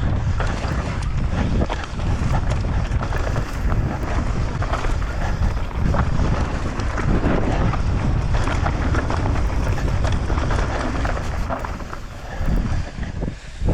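Wind buffeting the camera microphone during a fast mountain-bike descent, with the bike's tyres and frame rattling and knocking over rough ground.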